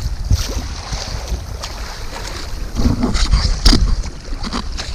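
Wind buffeting the microphone over water slapping and splashing around a sea kayak, with a few short sharp sounds, the loudest about three and a half seconds in.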